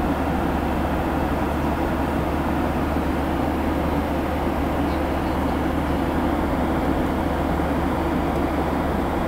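Steady cabin noise inside a Boeing 737 airliner in flight: the constant drone of the engines and rushing air.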